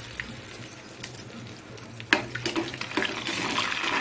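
Cashews sizzling as they fry in hot ghee in a small steel pan. A ladle knocks against the pan about two seconds in, and the sizzle grows busier and louder as the nuts are stirred near the end.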